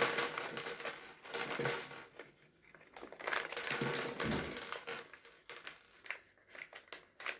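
Plastic Lego pieces clattering and clicking together while being taken out of a rustling plastic parts bag, in irregular bursts with short pauses.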